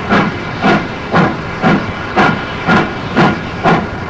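Steam locomotive working, its exhaust beating evenly at about two chuffs a second over a steady hiss of steam.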